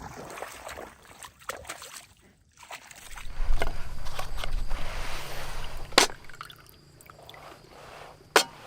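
Water sloshing and splashing, loudest from about three to six seconds in, with a sharp knock about six seconds in and another near the end.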